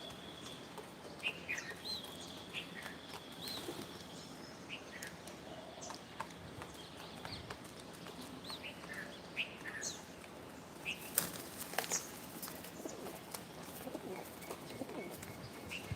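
Birds chirping in scattered short high calls, with sharp wing flaps twice a little past the middle.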